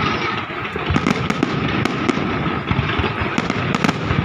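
Fireworks display going off: a dense, continuous run of bangs and crackling with many overlapping reports and no break.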